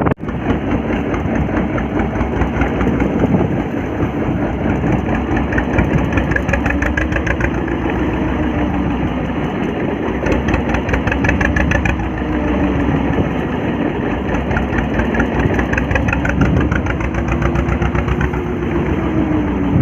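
Fishing boat's engine running steadily at sea, its pitch rising and falling in slow swells every few seconds.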